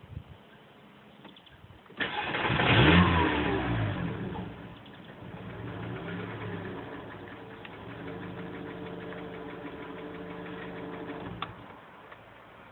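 VW Golf Mk4 engine heard from inside the cabin: it starts about two seconds in with a loud flare that falls away, swells again briefly, then runs at a steady idle before cutting off with a click near the end. This is the engine whose knocking noise the owner cannot diagnose.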